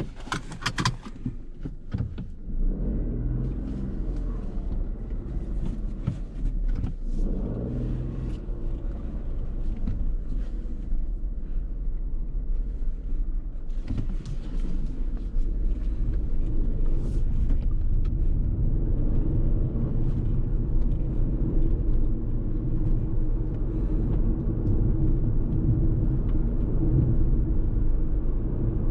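Fiat Tipo's 1.0-litre turbocharged three-cylinder petrol engine running with a steady low rumble that comes in about two seconds in and gradually grows louder, after a few knocks and clicks at the start.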